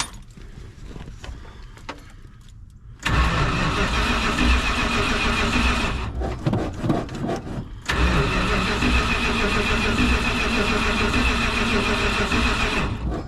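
1970 Dodge D100 pickup's engine cranked over by its starter on a cold start, in two tries of about three and five seconds, without catching.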